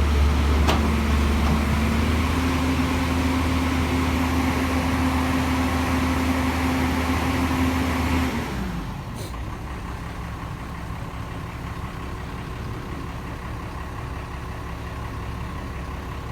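Swaraj tractor's diesel engine running steadily at idle, then shut off about eight seconds in, its note sagging as it dies. A quieter engine keeps running in the background afterwards.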